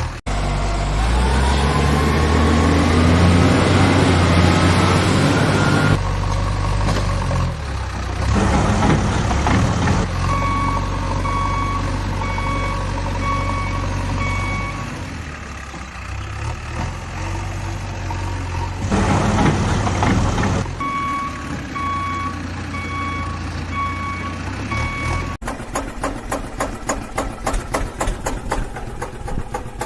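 Truck engine running, revving up over the first few seconds and then running steadily. A reversing alarm beeps in two spells through the middle. Near the end it gives way to a fast, regular chugging.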